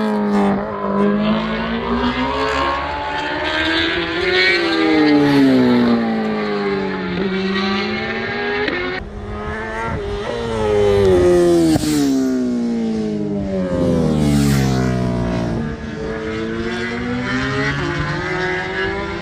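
Racing motorcycles at full throttle going past one after another, each engine note climbing steeply and then falling away, over and over.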